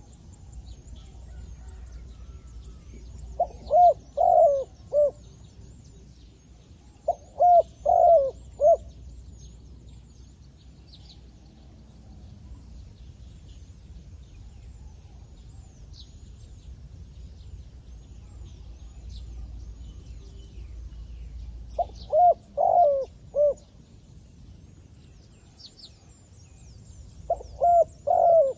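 Decoy zebra dove cooing in four bouts of quick, staccato coos, two in the first ten seconds and two near the end. Faint high chirps of small birds run through the background.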